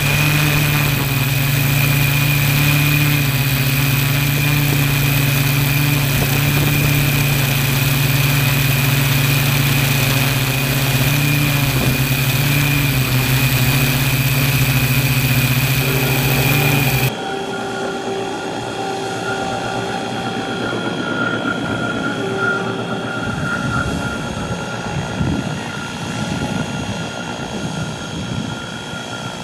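Align T-Rex electric RC helicopter's motor and rotor running steadily with a high whine. About seventeen seconds in, the sound changes abruptly to a quieter drone with different pitches.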